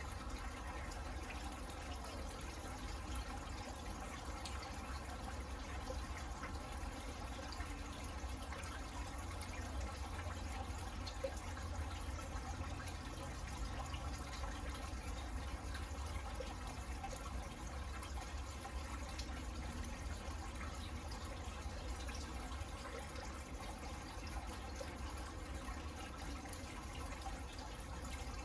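Steady rain falling on a garden: an even patter of drops and drips, with a steady low rumble underneath.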